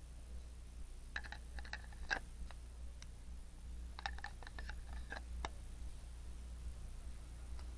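Two short runs of small, sharp clicks and light taps, each lasting about a second and a half, with a steady low hum underneath.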